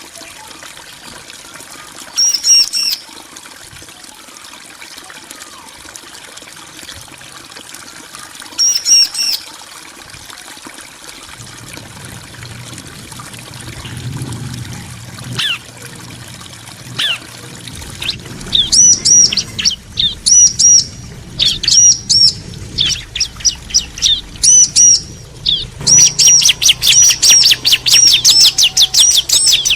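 Bar-winged prinias (ciblek) calling in short, high chirping phrases, one about two seconds in and another near nine seconds. From about eighteen seconds the phrases come more and more often, and they run into a fast unbroken string of chirps near the end.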